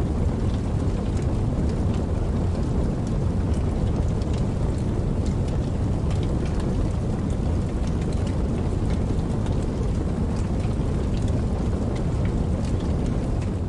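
Campfire crackling over a babbling creek: scattered sharp pops and snaps sit on top of a steady, low rush of running water.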